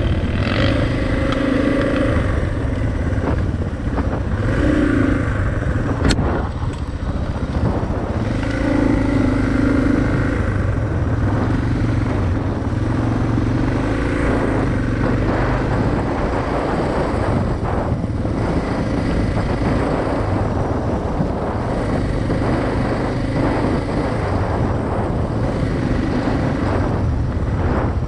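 Suzuki DR650's single-cylinder engine running under way on a ride, its note rising and falling with the throttle over steady wind and tyre noise. There is a single sharp click about six seconds in.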